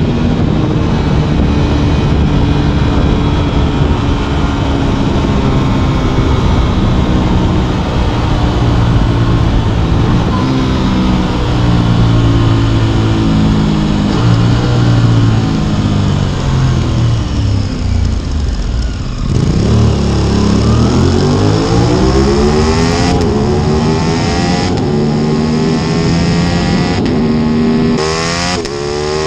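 Aprilia RS 660's parallel-twin engine under way. Its note sinks steadily for most of the time as the bike slows. About two-thirds of the way in it climbs hard under acceleration, with several quick upshifts near the end.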